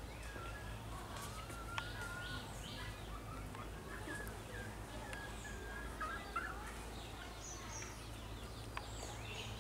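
Birds calling and chirping: wavering mid-pitched calls and short high chirps, over a steady low hum, with a couple of faint clicks.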